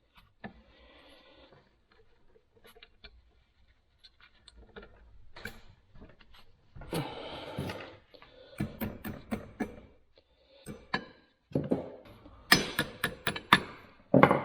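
Metal parts of a Record No. 6 bench vise clicking, knocking and rattling as they are fitted and tightened by hand, with a quick run of sharp clicks near the end.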